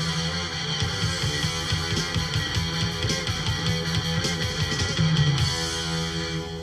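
Rock band with electric guitars, bass and drums playing the final bars of a song; about five and a half seconds in the drumming stops and the band holds a closing chord.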